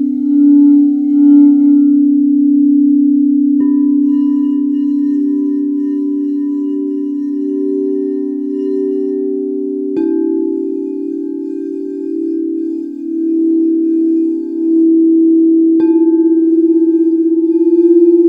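Singing bowls ringing, with a slow wavering pulse in the tone. A bowl is struck three times, about four seconds in, about ten seconds in and near the end, and each strike adds a new ringing note over the ones still sounding.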